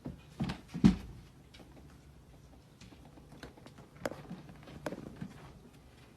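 A few soft knocks and taps, clustered near the start with the loudest about a second in, and a couple more later.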